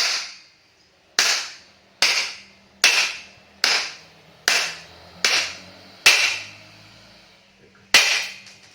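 Hammer blows on metal, about one every 0.8 seconds and each ringing briefly, with a pause of about two seconds before a last blow: a stuck motorcycle rear axle being driven out of the wheel.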